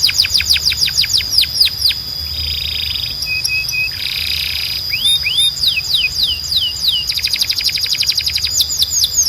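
Timbrado canary singing: rapid rolling runs of repeated falling notes, broken by short buzzing trills and a few held notes.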